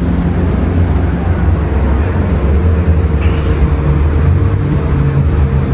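Car on the move: a steady low rumble of engine and road noise, with a faint steady hum running through it.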